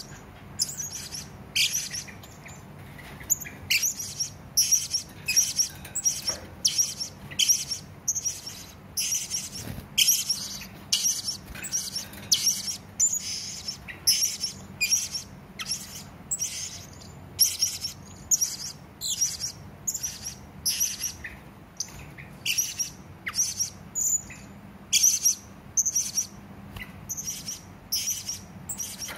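Serindit (hanging parrot) calling: a long run of short, sharp, high-pitched chirps, often in quick clusters, about one to two a second.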